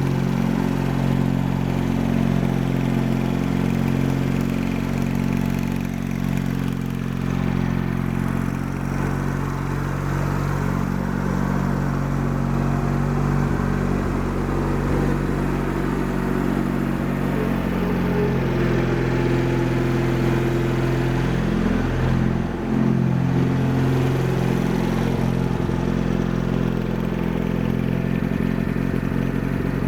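Craftsman GT6000 garden tractor engine idling steadily, with a brief dip in pitch about three-quarters of the way through. The idle is set low enough that the owner thinks it needs raising.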